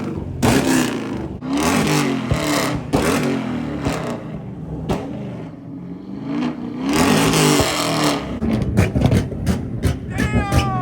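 Car engines revved hard through loud exhausts, again and again. Near the end comes a fast run of sharp crackling pops: exhaust pops and bangs from a flame tune.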